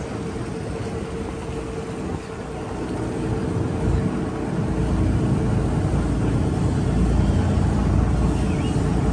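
Cross-river ferry's engine running, a steady low rumble that grows louder about three seconds in.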